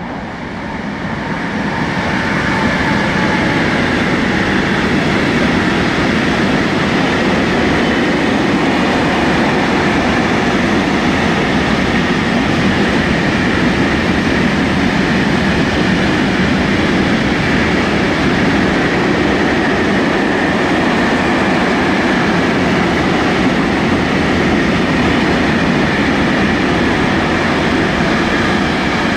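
Freight train of hopper wagons passing at speed on the rails. It makes a steady, loud rolling rumble and rattle of steel wheels on track, which builds over the first couple of seconds and then holds.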